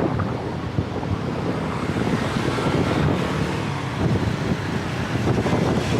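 Wind buffeting the microphone, a steady rumbling rush, with road traffic noise underneath.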